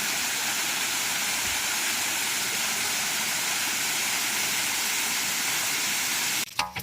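Steady rush of flowing water, even and unbroken, cut off abruptly near the end.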